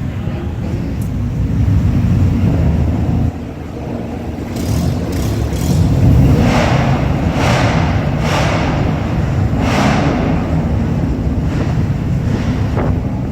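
Several cars driving off one after another, their engines and exhausts making a deep steady rumble. The rumble dips briefly about three seconds in and gets louder again from about six seconds, with short rushing swells as cars go by.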